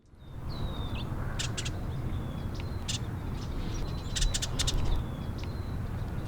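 Birds chirping in short high calls over a steady low outdoor rumble, with a few sharp clicks.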